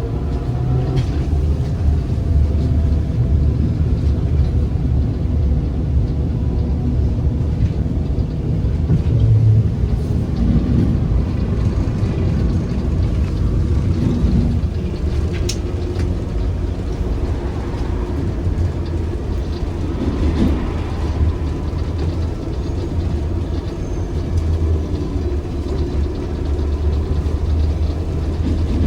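Steady rumble of a ZiU-682G trolleybus under way, heard from inside the cabin: the road and running noise of the body, with a faint whine from the traction motor that glides in pitch near the start. There is a sharp click about a quarter of the way past the middle.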